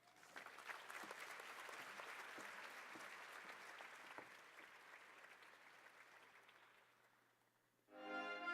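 Faint audience applause that fades away over several seconds. Near the end, orchestral music with brass begins.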